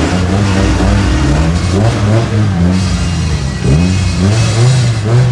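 Car engine revving over and over in short blips, the pitch rising and falling in quick succession, loud throughout.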